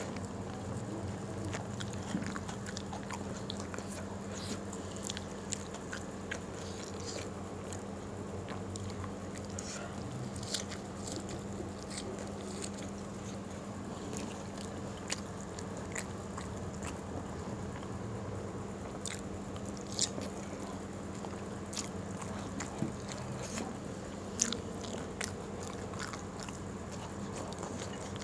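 A person chewing and biting fried food eaten by hand, with scattered short, sharp crunches and mouth clicks over a steady low hum.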